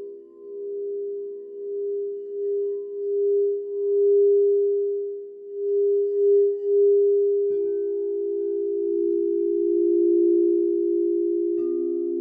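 Singing bowls ringing in long sustained tones that swell and waver in loudness. A bowl is struck about seven and a half seconds in, adding a lower note, and another near the end adds a lower one still.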